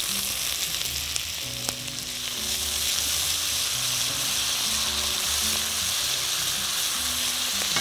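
Chopped onion and minced garlic frying in hot oil in a wok: a steady sizzle. Soft background music plays underneath.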